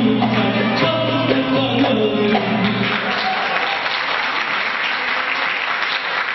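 Live singing with instrumental backing holds its final notes, then about three seconds in the audience breaks into applause that carries on.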